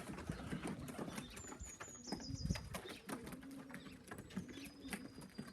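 Domestic pigeons cooing softly, low coos recurring from about two seconds in, over light, scratchy tapping.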